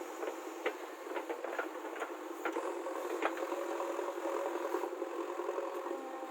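JCB 3DX backhoe loader at work: its diesel engine runs steadily, with a scatter of sharp knocks and rattles from the machine working.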